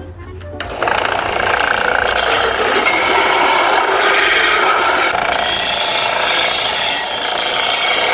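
Belt sander starting up about a second in and grinding the cut end of a stainless steel exhaust pipe, a loud steady abrasive rasp.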